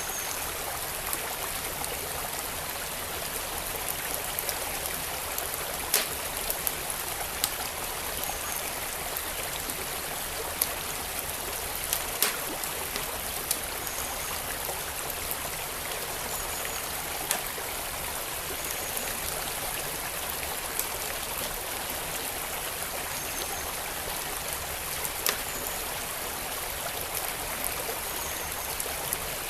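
Wood fire crackling, with sharp pops scattered every few seconds, over the steady rush of a flowing stream.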